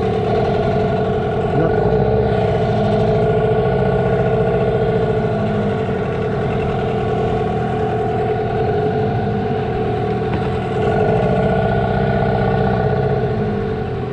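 Boat's motor running steadily, with a slight rise in level about two seconds in and again near eleven seconds.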